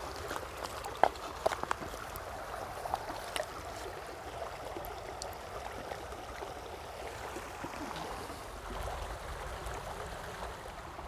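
A stream running and trickling steadily, with a few short sharp splashes or knocks a second or two in.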